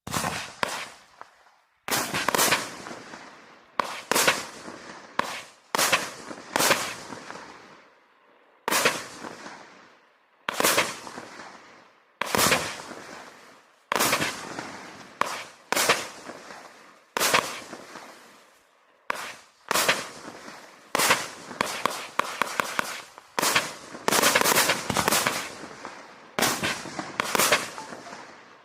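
A 36-shot, 30 mm firework cake firing its shots one after another, roughly one every one to two seconds. Each is a sharp bang with a fading tail, and some are followed by quick strings of crackling.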